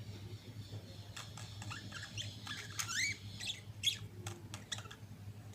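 Budgerigars chattering: a quick run of short rising chirps and clicks that starts about a second in and is busiest around the middle, over a steady low hum.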